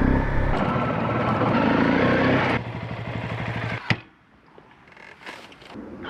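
Motorcycle engine running loudly, easing to a quieter, pulsing run about two and a half seconds in. A sharp click comes just before four seconds, and it is fairly quiet after that.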